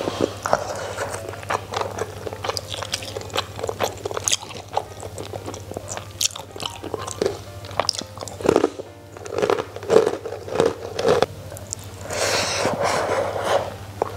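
Close-up chewing and biting of crunchy food: repeated crisp crunches and mouth sounds, heaviest in the second half.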